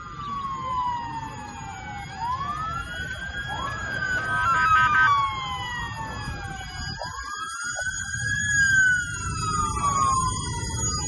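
Several emergency-vehicle sirens wailing at once, their rising and falling tones overlapping, over a low rumble of traffic.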